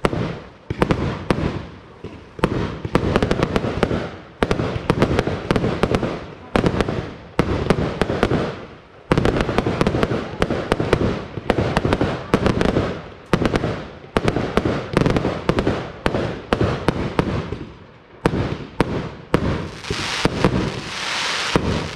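Aerial fireworks display: a rapid, irregular series of sharp bangs from shells being launched and bursting, each with a short echoing tail. Near the end a hissing crackle builds up under the bangs.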